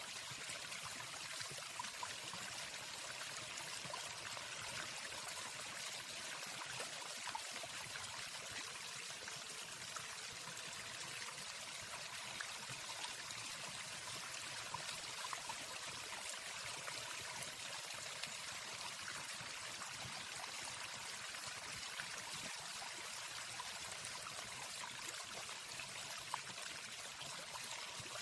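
Steady rushing water of a waterfall: an even, unbroken hiss with no birdsong.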